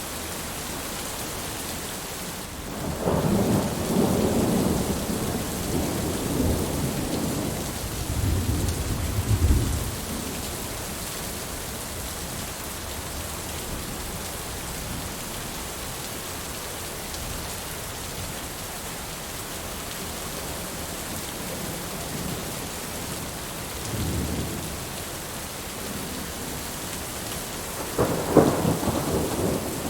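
Steady rain with rolling thunder: one long roll from about three to ten seconds in, a faint rumble a little past halfway, and another roll near the end.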